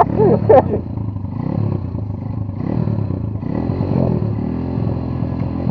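Chinese two-stroke enduro motorcycle engine revving up and down in repeated swells. The riders joke that it is smoking like a bonfire and short of power.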